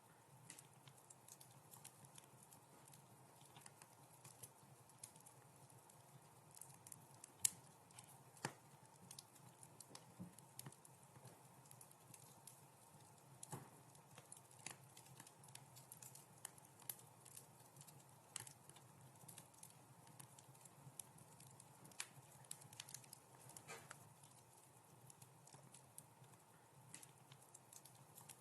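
Wood fire in a fireplace crackling softly, with irregular sharp pops and snaps over a faint steady hiss; the loudest pop comes about seven seconds in, followed by another a second later.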